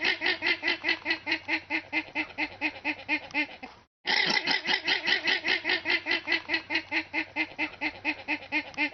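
An animal calling in a fast, even series of short pitched calls, about six a second, in two long runs broken by a brief gap about four seconds in.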